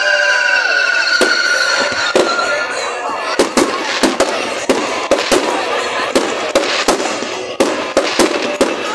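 Fireworks going off: a run of sharp bangs and cracks, about two a second. Over the first two seconds a high, wavering whistle fades out.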